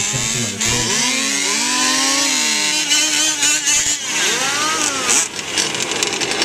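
Several fifth-scale off-road RC trucks' small two-stroke gasoline engines revving, their pitches rising and falling and overlapping.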